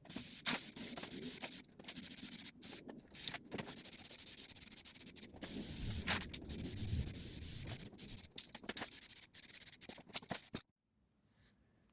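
Sanding: a rough scraping hiss broken by short pauses, stopping abruptly near the end.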